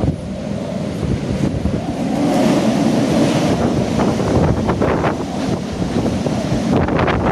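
Typhoon wind blowing hard against the microphone: a loud, heavy rushing that swells a couple of seconds in, with a few short, sharp noises in the second half.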